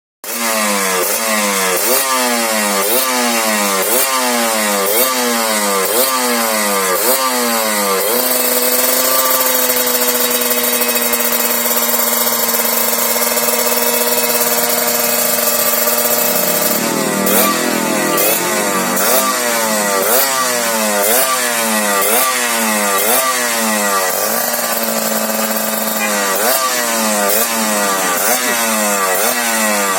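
Kawasaki Ninja 150 single-cylinder two-stroke engine breathing through an MVP Racing aftermarket muffler, revved in quick repeated throttle blips, a little more than one a second. Around the middle the revs are held steady for several seconds, with a shorter steady hold near the end before the blipping resumes.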